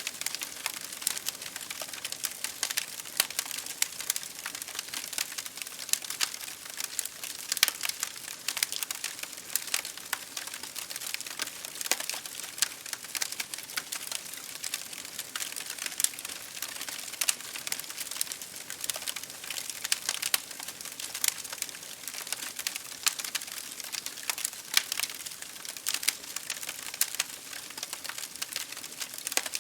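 Wood fire crackling in a fireplace, with dense, irregular clicks and pops over a steady hiss of rain hitting a window.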